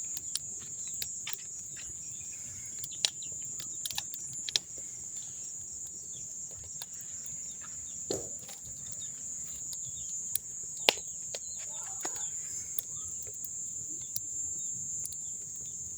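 A steady, high-pitched insect chorus, with a wood bonfire crackling and popping in sharp, irregular snaps, the loudest about three, four and a half and eleven seconds in. A faint bird or chicken call comes in once or twice.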